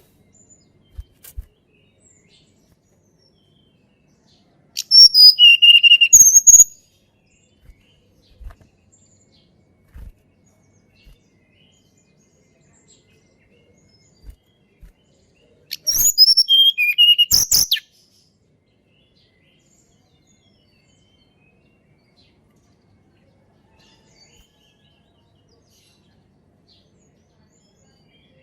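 Tledekan gunung singing two short, loud phrases of high whistled notes about ten seconds apart, with a few faint clicks in between.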